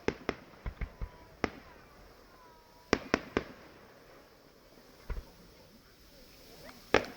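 Fireworks display: a string of sharp bangs at irregular intervals, some in quick pairs and triples, with the loudest burst near the end.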